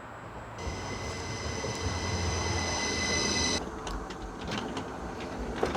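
Passenger train pulling into the station and braking, with a high, steady squeal from the wheels and brakes for about three seconds from about half a second in, over the rumble of the wheels. After the squeal stops, the rumble carries on with a few sharp clicks.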